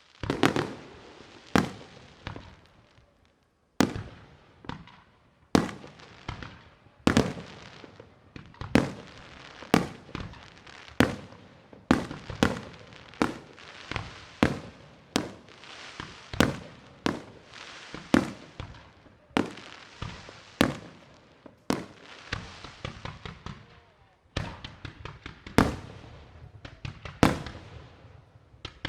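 Fireworks display: aerial shells bursting one after another, a sharp bang every second or so, each followed by a fading echo, with a short lull about three seconds in.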